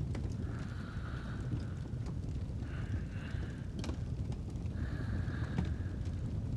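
Fireplace fire with a steady low rumble and a few sharp crackles and pops, over slow sleep breathing: soft breaths about every two seconds, three in all.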